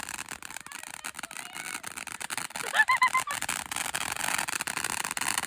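Scattered faint pops and crackles of distant fireworks, with a short high rising pitched sound about three seconds in.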